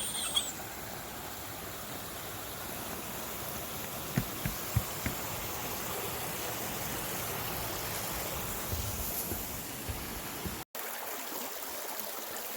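Steady rush of a waterfall, an even wash of falling water. A few soft low thumps come about four seconds in, and the sound drops out for an instant near the end before carrying on.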